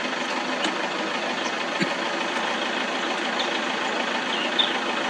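Safari vehicle's engine idling steadily, with a few short high chirps over it.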